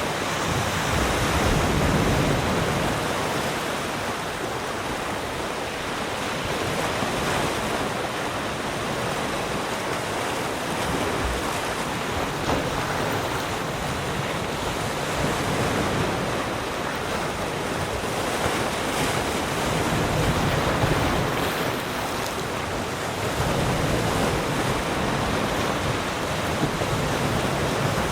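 Ocean waves breaking and washing on a shore, a steady surf that swells and eases every few seconds.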